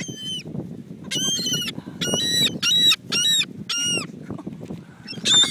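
Seagulls calling: a run of short, harsh squawks, several in quick succession in the middle and one more near the end, over a steady low rush of background noise.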